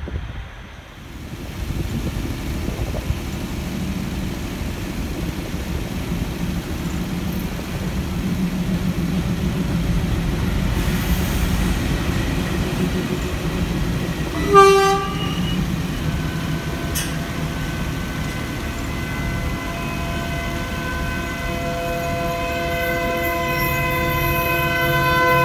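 Diesel-hauled passenger train passing, its coaches rumbling steadily over the track. A short horn toot sounds about halfway through, and a steady horn note comes in soon after and grows louder toward the end.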